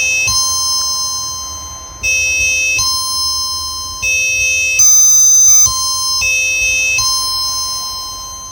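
Electronic synthesizer tones with bright overtones, a new note or chord about every second, each starting sharply and fading away before the next.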